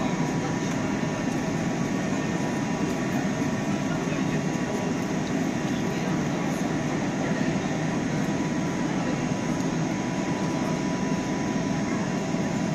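Steady hum and hiss of a double-deck regional train standing at the platform, with a faint steady high whine running through it.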